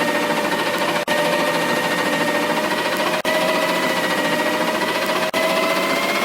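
A garbage truck running: a steady mechanical drone whose pitch rises slowly, broken by brief dropouts about every two seconds.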